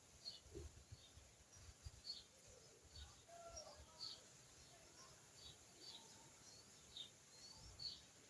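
Faint birds chirping: short high chirps repeating every half second or so, with a few softer lower calls in the middle, over scattered faint low thumps.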